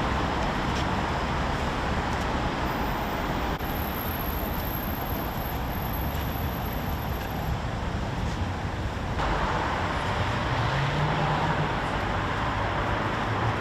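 Steady city street traffic noise, a hum of passing cars, with the mix shifting abruptly twice.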